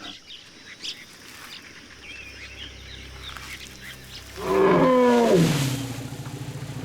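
A large wild animal's loud call, about a second and a half long, that falls in pitch at its end, followed by a low pulsing rumble.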